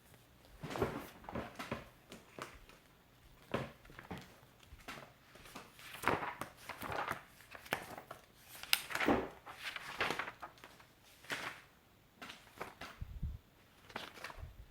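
Slime being squeezed and worked by hand: irregular sticky crackles and squishes, coming in uneven bursts.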